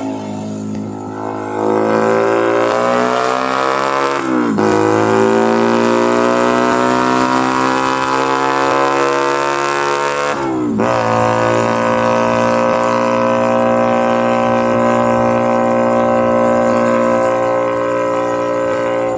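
Keeway SCR 250V motorcycle engine and exhaust accelerating through the gears: the pitch climbs, drops sharply at an upshift about four and a half seconds in, climbs again more slowly to a second upshift near eleven seconds, then holds steady at a cruise.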